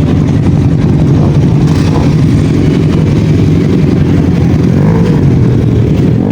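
Superbike engine running loud at steady revs, its pitch holding without rising or falling.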